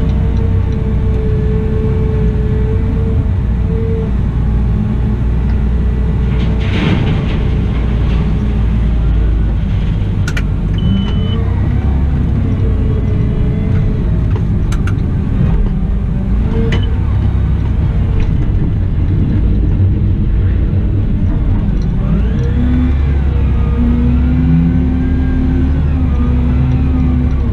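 Cat 972M XE wheel loader's diesel engine running under changing load, its pitch rising and falling as the machine works. A few sharp clicks and one short high beep are heard partway through.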